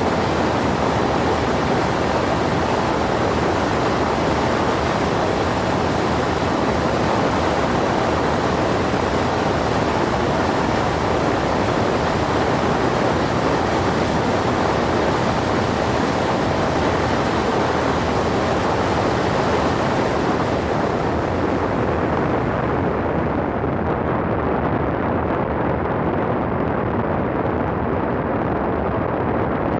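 Steady cabin noise of the Zenith STOL CH 750 Super Duty, its Lycoming IO-375 engine and propeller running with airflow rushing over the airframe, heard from inside the cockpit as a dense, even roar. The upper hiss dulls about three-quarters of the way through.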